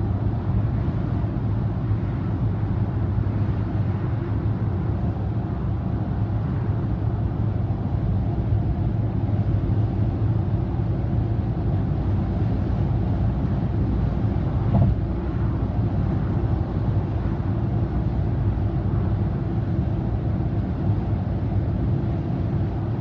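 Steady road and engine noise of a car cruising at expressway speed, heard inside the cabin as a low rumbling hum, with one brief bump about two-thirds of the way through.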